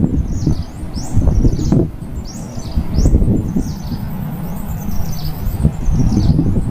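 Small birds chirping in quick, short high notes, several a second, over an uneven low noise.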